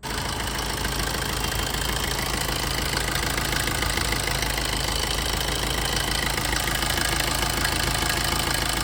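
2010 Maruti Suzuki Swift engine running steadily at idle with a timing chain rattle, the sign of a worn, stretched timing chain due for replacement at 137,000 km.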